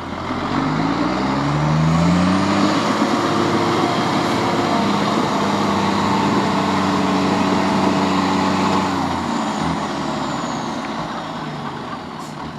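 Trial truck's diesel engine revving hard under load, its pitch climbing in steps, then holding high before easing off about nine seconds in.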